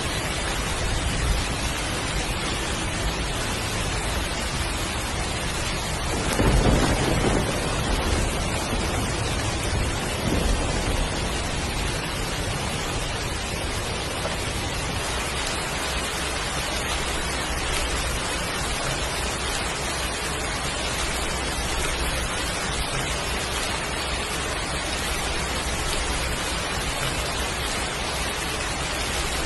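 Heavy rain falling steadily, with a roll of thunder about six seconds in and a fainter rumble a few seconds later.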